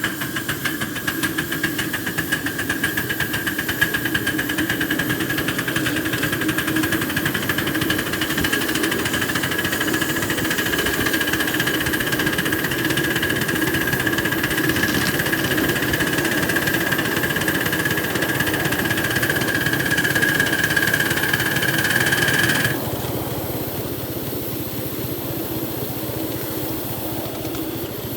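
Live-steam garden railway locomotive 8335 working hard up a grade, its exhaust beating fast and evenly over a steady hiss and whine. The loud sound cuts off suddenly about 23 seconds in, leaving a quieter, steady running sound.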